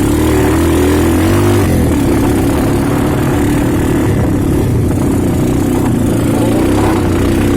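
Motorcycle engine running steadily under way, its pitch holding level.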